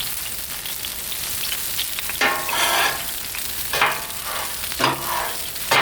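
Sauce and pork sizzling on a Blackstone flat-top griddle, with four short metal scrapes across the griddle top in the second half as the pork is scooped up.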